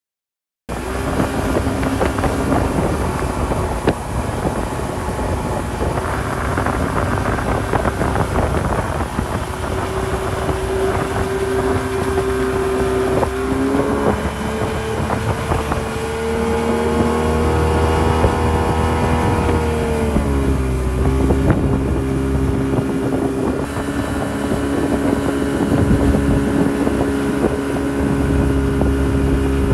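Motorboat engine running under way, starting abruptly about a second in, with wind buffeting the microphone. Its pitch climbs through the middle and drops back about two-thirds of the way through.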